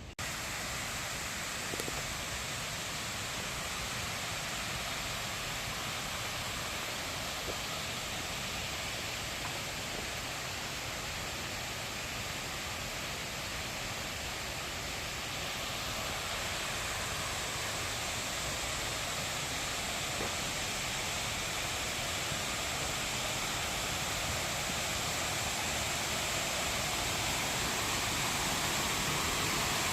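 Mountain valley stream rushing over rocks: a steady rush of water that grows slightly louder over the second half.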